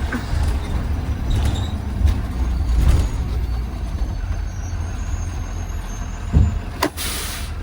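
Inside a Blue Bird Vision school bus: the engine runs with a steady low rumble, then about seven seconds in there is a sudden sharp hiss of air from the air brakes.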